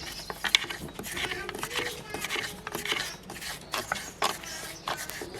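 Voices talking in the background, untranscribed, with a few sharp clicks and taps scattered through them.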